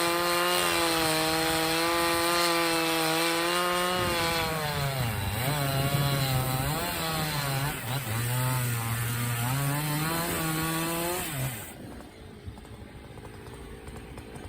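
Chainsaw cutting through a downed maple log at full throttle: the engine holds a steady high pitch for about four seconds, then its pitch dips and recovers again and again as the chain loads up in the wood. Near the end it comes off the throttle and goes much quieter.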